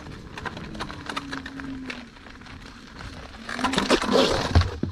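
Electric unicycle hub motor whining faintly, its pitch falling slowly over the first two seconds as the wheel slows, among light ticks and rustle. A louder rush of noise comes near the end.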